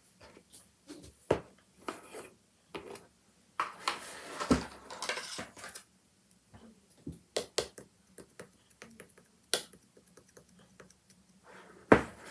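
Handmade slime squished and pressed by hand, giving scattered sharp clicks and pops, with a denser run of crackling squishes from about three and a half to six seconds in and one loud pop near the end.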